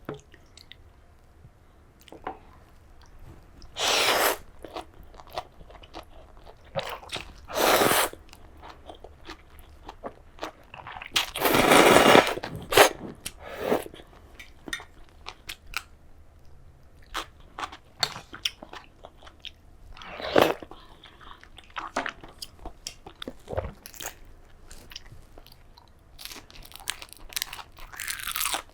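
Close-miked eating sounds: crunchy bites and chewing made up of many small clicks, broken by a few louder noisy bursts. The longest burst, about two seconds, comes near the middle.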